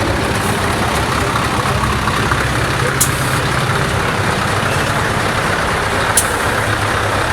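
Heavy truck engines running steadily as trucks drive past, with two short, sharp high-pitched sounds about three seconds apart.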